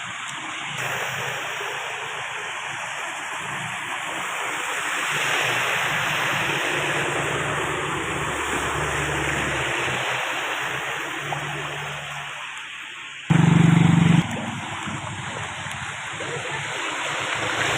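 Steady rush of flowing floodwater, with a loud deep steady tone lasting about a second near the end.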